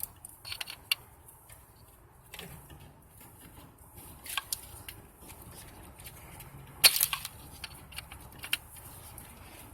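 Plastic electrical connectors clicking and knocking as a wiring harness plug is worked onto an engine sensor. There are several light clicks, with one sharp loud click about seven seconds in.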